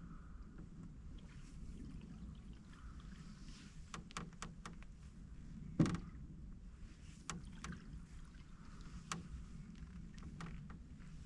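Canoe being paddled: scattered small clicks and knocks from the paddle and the creaky hull, with one louder knock about six seconds in, over a low steady background.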